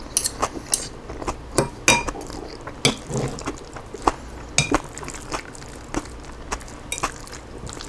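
Eating utensil clinking and tapping against a dish of chicken salad: a dozen or so sharp, irregular clinks while food is picked up and eaten.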